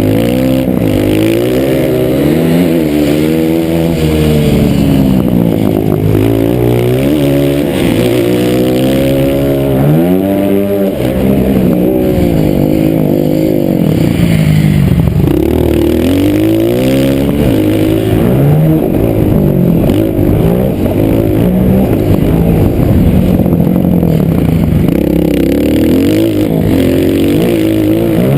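Motocross bike engine being ridden hard on a dirt track, revving up and dropping back again and again as the throttle is opened and closed.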